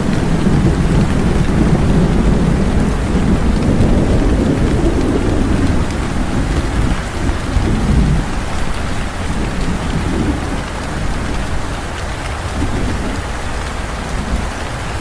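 Heavy rain falling steadily, with a long low roll of thunder that rumbles through the first half and dies away about eight seconds in.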